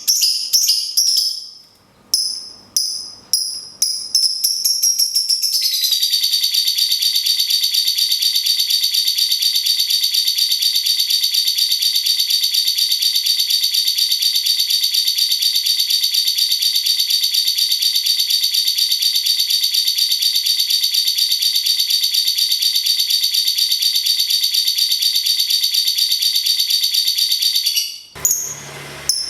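Songbird singing: about five seconds of short, quick high calls rising in pitch, then one unbroken, very fast buzzing trill lasting over twenty seconds that breaks off near the end.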